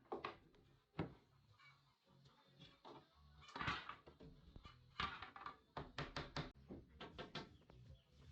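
Irregular knocks, taps and short scrapes of wood being handled and worked, with a quick run of taps about five seconds in.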